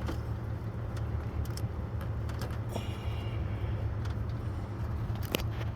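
A few light metallic clicks and clinks from a ratchet and the belt tensioner as the serpentine belt is worked onto the pulleys: one near the start, a few about three seconds in, and a sharper one near the end. A steady low hum runs underneath.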